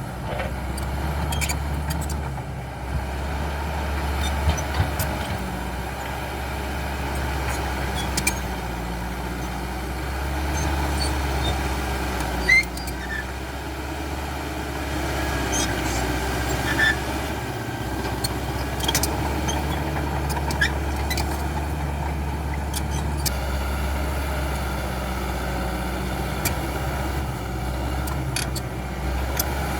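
CAT D5K XL crawler bulldozer's diesel engine running steadily under work, with scattered sharp clicks and knocks.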